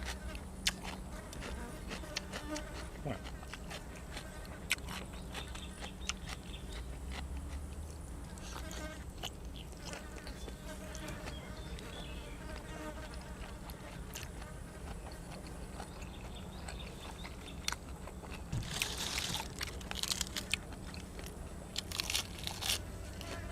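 Close-up eating sounds: chewing and crunching of grilled cuttlefish and raw vegetables, many small clicks throughout, with louder crunching spells near the end. A faint steady high whine sits underneath.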